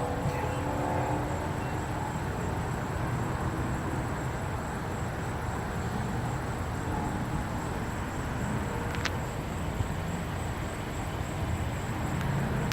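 Car driving at a steady pace, a low engine and road rumble. A faint engine note fades out just after the start, and there is a single light click about nine seconds in.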